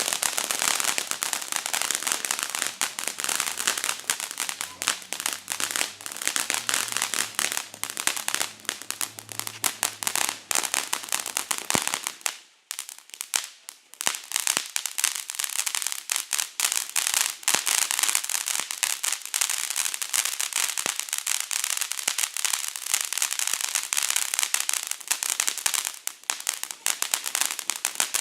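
Small firework crackling, a dense run of rapid sharp pops and crackles that breaks off briefly about halfway through, then starts again.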